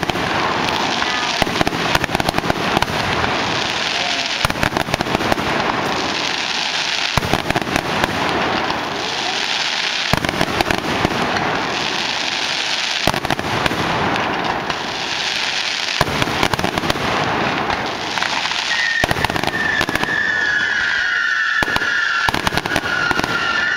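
Fireworks going off steadily: dense crackling and rapid pops in swells every few seconds. Near the end a high whistle comes in and sags a little in pitch.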